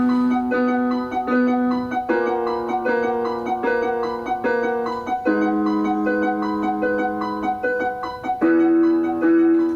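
Piano intro playing repeated chords, each chord struck several times before the harmony changes every few seconds.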